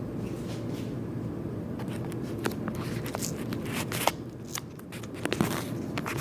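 Birds scuffling at a window: scattered sharp scratches and taps, irregular and bunched in a few flurries, over a steady low hum.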